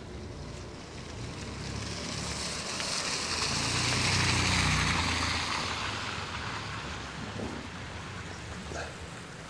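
A vehicle driving past on a wet, slushy street: tyre hiss and engine rumble swell to a peak about four seconds in, then fade away.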